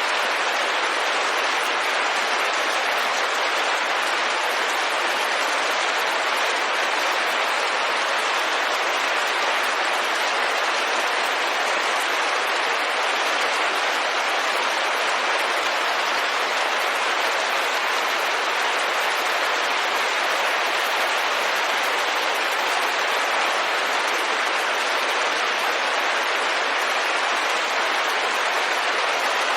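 Steady rain pattering on a window pane, an even, unbroken hiss of drops.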